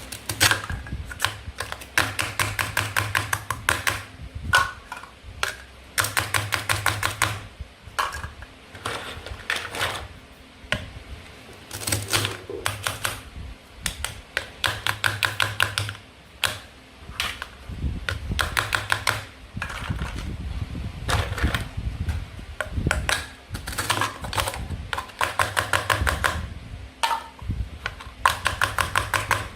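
Toy play food being cut apart with a toy knife: repeated bursts of rapid sharp clicks, each lasting a second or so and coming every few seconds.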